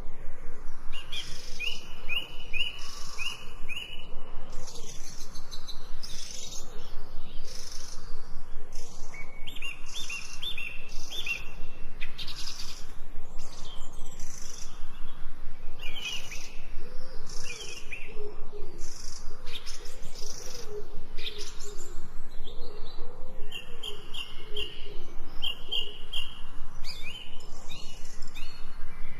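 Several birds chirping and calling, with runs of quick repeated notes and, in the second half, a lower wavering call.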